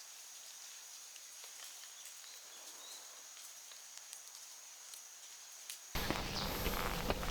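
Faint steady hiss of rain with a thin, steady high insect tone and a few small ticks. About six seconds in, the sound changes abruptly to a much louder rustling noise.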